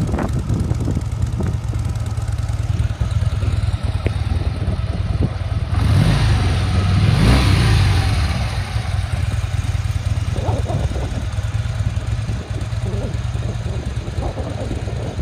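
2017 Harley-Davidson Dyna Fat Bob's air-cooled Twin Cam 103 V-twin engine running, swelling louder for a few seconds in the middle.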